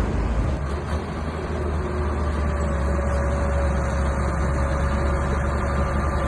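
Small bulldozer's engine running steadily with a deep rumble, a faint thin whine coming in about two seconds in.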